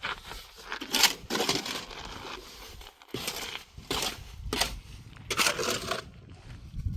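Gritty scraping strokes of a tool working through sand-and-cement mortar, several separate rasps of under a second each.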